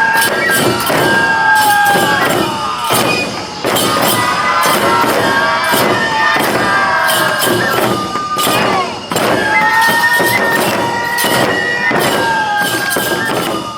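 Neputa festival hayashi: taiko drums beating steadily while bamboo flutes play a held, slightly sliding melody above them.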